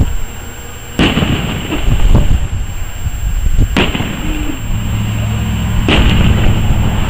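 Fireworks exploding overhead: three loud booms, about a second in, just under four seconds in and near six seconds, each followed by a long rolling rumble, with a low steady hum underneath from about the middle on.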